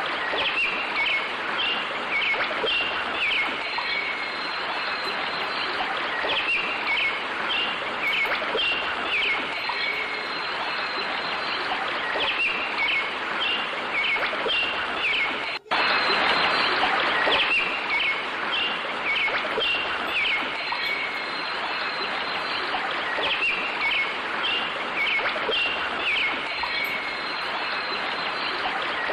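Small birds chirping in short repeated phrases over a steady rushing background noise, with a momentary cut about halfway through.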